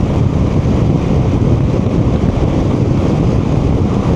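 Riding a BMW R1200GS motorcycle at speed: a steady rush of wind noise on the rider's microphone, with the bike's running and road noise underneath.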